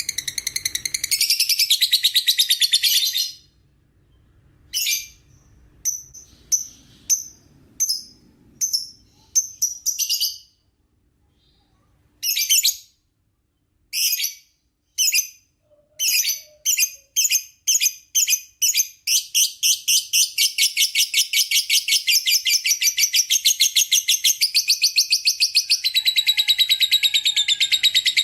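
Lovebird's long chattering trill ('ngekek'): a rapid, high, fast-repeating trill breaks off after about three seconds into separate short chirps, which come quicker and quicker after a short pause until they run together into a continuous trill again from about two-thirds of the way through.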